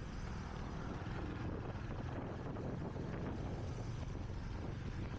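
Royal Enfield Hunter 350's single-cylinder engine running steadily while the motorcycle is ridden, with wind noise on the camera microphone.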